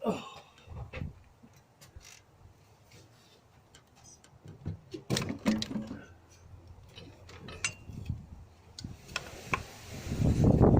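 Hand tools clicking and clinking against metal as the auxiliary belt adjuster is done up with the belt levered tight. Near the end comes a louder rustling, knocking handling noise.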